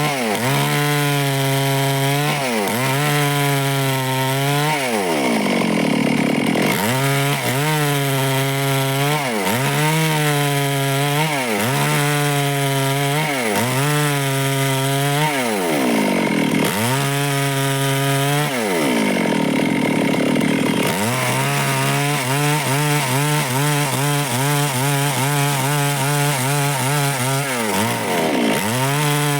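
Stihl chainsaw cutting through wood, its engine pitch dipping under load and climbing back again every second or two. Several times the pitch sinks lower and stays down for a second or more before recovering.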